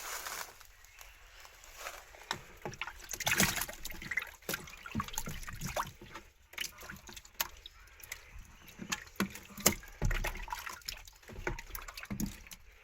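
Shallow water sloshing and splashing, with irregular small knocks and clicks throughout and a louder low thud about ten seconds in.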